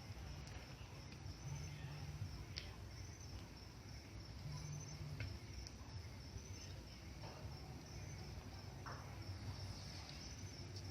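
Faint, steady chirping of crickets, with a low hum beneath and a few faint, isolated snaps.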